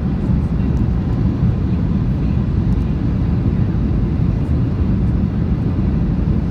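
Steady low rumble of airflow and engines inside the cabin of a Boeing 737-800 on final approach, with its landing gear down and flaps extended.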